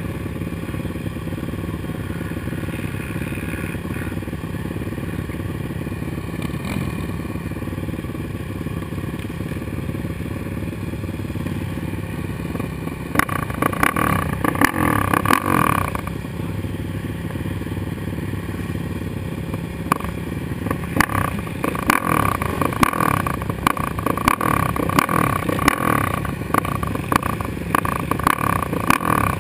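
Suzuki LTR 450 quad's single-cylinder four-stroke engine running under way on a motocross track. It grows louder and more rattly, with sharp clacks, about halfway through for a few seconds and again for most of the last third.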